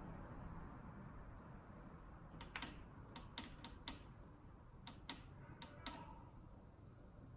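About ten sharp, irregular clicks, several in quick pairs, from a dishwasher being handled, over a faint steady background noise.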